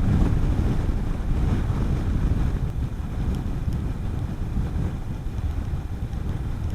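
Wind buffeting the microphone while riding a Honda CB400SS motorcycle at speed, over a steady low rumble of engine and road noise.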